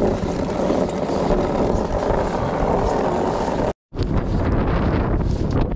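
Blizzard wind buffeting the microphone: a loud, steady, rough rumble. It cuts out for an instant about four seconds in, then resumes.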